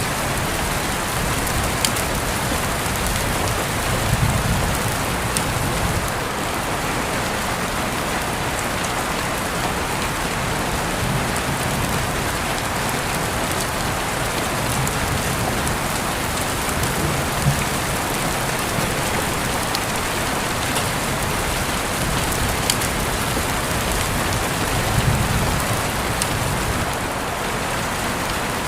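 Steady rain falling, an even hiss with scattered sharp taps of single drops striking nearby surfaces. There are a few brief low swells beneath it.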